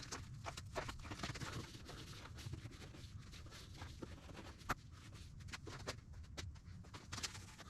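Quiet hands-on work on a dirt bike's airbox area: scattered light clicks and rubbing of parts being handled, with one sharper click a little past halfway.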